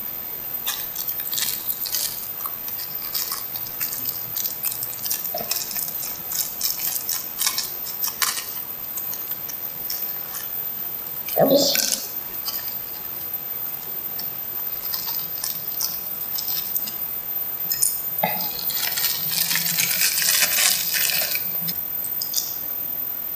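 Hard plastic toy airplane parts being handled and fitted together, giving light scattered clicks and clinks. There is a louder scrape about halfway through and a longer rattle near the end.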